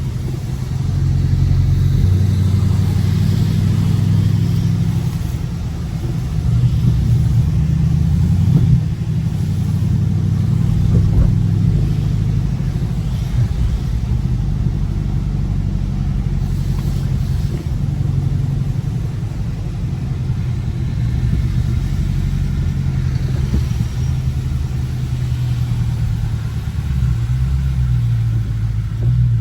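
Dodge Scat Pack's 6.4-litre 392 Hemi V8 running while driving along, a deep low exhaust note that swells and eases a little with the throttle.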